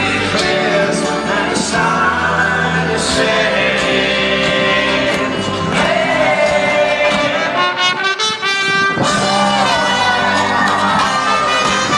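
Live folk-rock band playing an instrumental passage led by brass horns over a steady drum beat, with voices faintly singing along.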